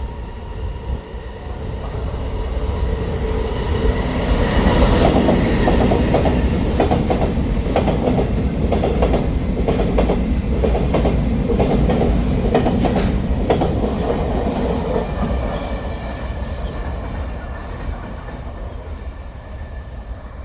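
Taiwan Railways train passing through the station without stopping. The rumble builds, peaks with a run of wheel clicks over the rail joints, then fades as the train recedes.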